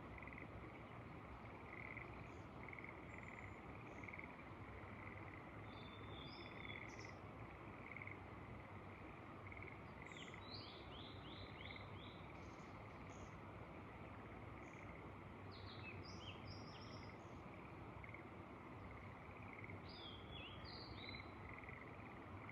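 Frogs calling, a steady series of short notes about once a second, while a small songbird sings short phrases of quick notes four times, over a faint steady hiss.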